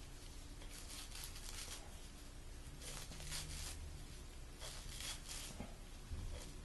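Faint scraping and rustling in several short bursts as a blade cuts and picks tangled thread and carpet fibres out of a Bissell ProHeat carpet shampooer's belt area.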